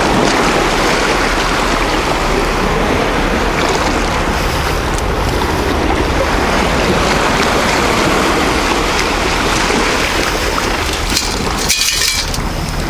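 Wind buffeting the microphone over the steady rush of surf, with a constant low rumble. Near the end comes a brief hiss lasting about a second.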